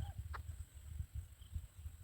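A short, sharp bird call about a third of a second in, with a few faint high chirps, over a steady low wind rumble on the microphone.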